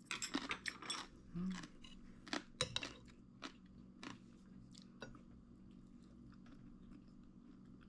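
A person chewing and biting food close to the microphone: a run of wet clicks and smacks, mostly in the first three and a half seconds, with a brief hummed 'mm' about a second and a half in, then fading to faint chewing and room tone.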